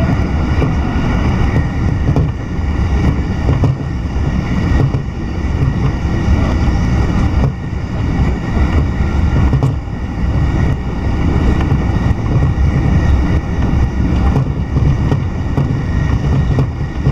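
Sōbu Line electric train heard from inside the carriage while running at speed: a steady low rumble of wheels on rail and running gear.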